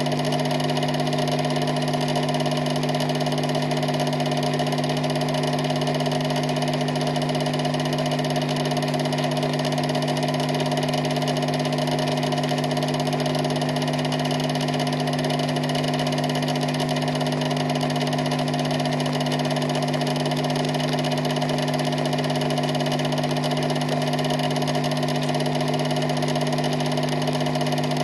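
Steady, unchanging mechanical hum with several fixed tones, holding the same level throughout.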